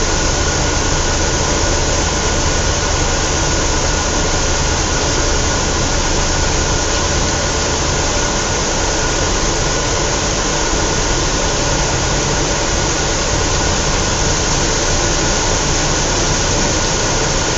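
Scania L113CRL single-deck bus with its diesel engine running steadily, a dense rumble with a constant high whine over it.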